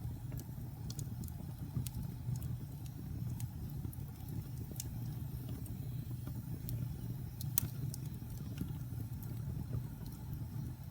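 Wood fire burning in a fireplace: irregular sharp crackles and pops over a low, steady rumble of flame, with one louder pop about two-thirds of the way through.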